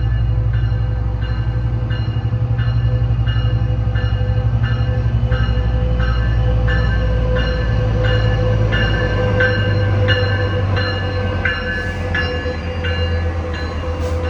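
A railroad bell ringing steadily, about one and a half strikes a second, each strike ringing on, over the steady low rumble of a train.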